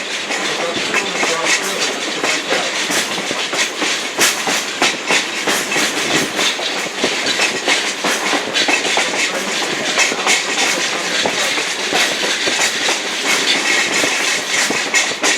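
Passenger coach rolling along the track: steady wheel and rail noise with frequent irregular clicks and rattles.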